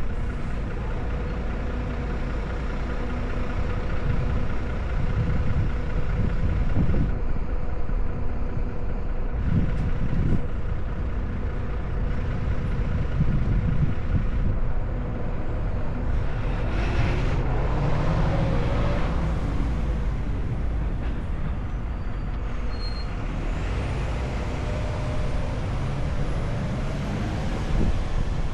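A car driving: steady engine and road noise with a low rumble, the engine note shifting up and down about halfway through.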